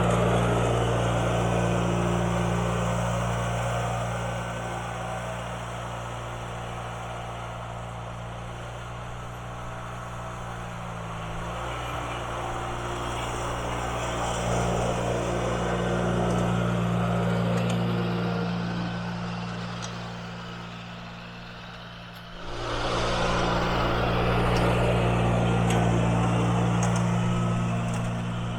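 1980 IH Cub Cadet 582 garden tractor engine running steadily while pushing snow, growing louder and fainter by turns, then coming up again suddenly about 22 seconds in.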